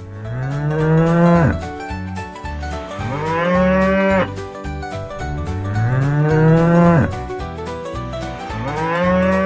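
Cow mooing four times, each moo a long call of about a second and a half that rises in pitch and drops at the end.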